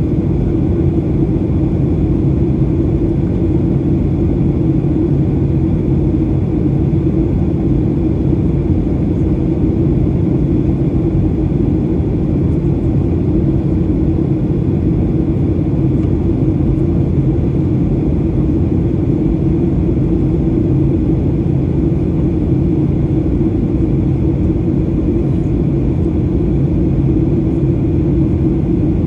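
Steady cabin noise inside a Boeing 737-800 airliner: the even drone of its CFM56 engines mixed with airflow noise, unchanging throughout.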